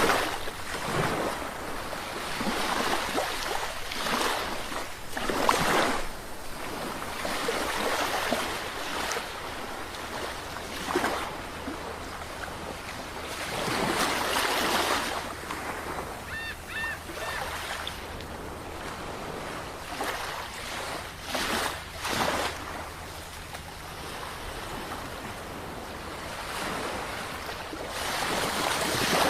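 Ocean surf: waves breaking and washing in, the rushing noise swelling and fading every few seconds. A few short high chirps sound about halfway through.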